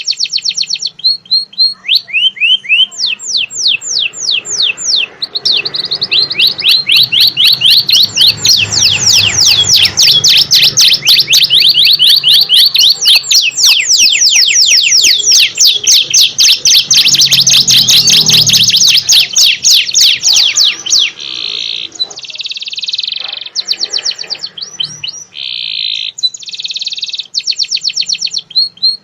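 A songbird singing loud, long phrases of rapid trills made of repeated sweeping notes, with short pauses and a few buzzier phrases between them.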